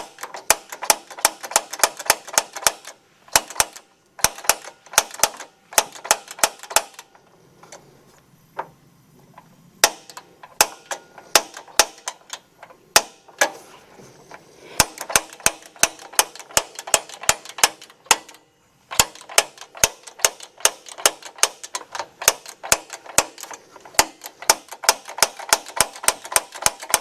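Spark igniter on a Blackstone propane griddle clicking rapidly, about five or six clicks a second, in repeated runs of a few seconds with short pauses between.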